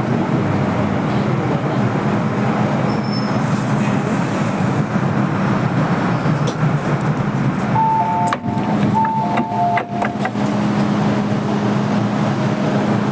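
An MTR M-Train electric metro train running, a steady rumble with a constant low hum. About eight seconds in, a two-note electronic chime sounds twice, along with a few sharp clicks.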